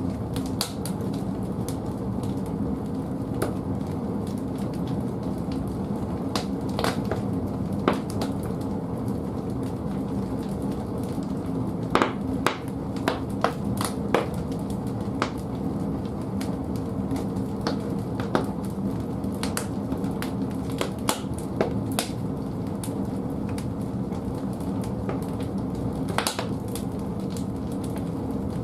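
Firewood burning in the firebox of an old bathhouse wood-fired boiler: a steady low rumble of the fire, with scattered sharp crackles and pops from the logs, a quick cluster of them about halfway through.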